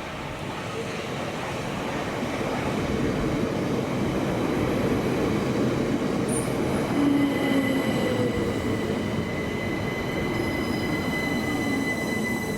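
Electric passenger train moving along the platform, a low rumble of wheels on rails growing louder, with a high, steady wheel squeal setting in about halfway through.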